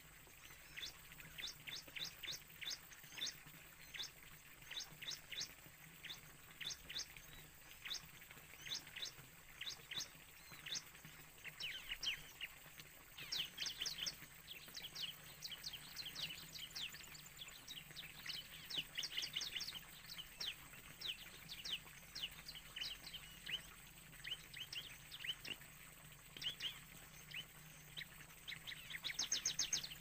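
Bird calls: quick series of high, downward-sweeping chirps repeated in clusters, with a dense, louder burst near the end.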